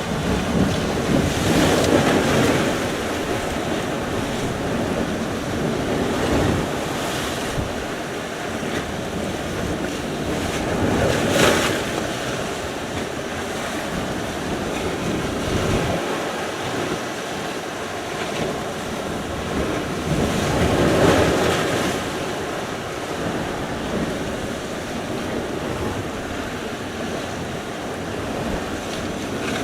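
Sea surf: a continuous wash of waves, swelling louder three times, about every ten seconds, as waves break on the shore.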